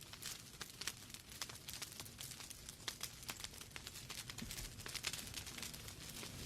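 Wood fire in a fireplace crackling: irregular sharp pops and snaps from the burning logs over a soft steady rush of flame.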